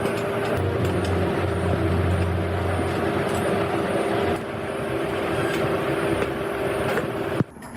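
A small homemade electric car running, with a steady motor whine and a low hum over road noise; the sound stops abruptly near the end.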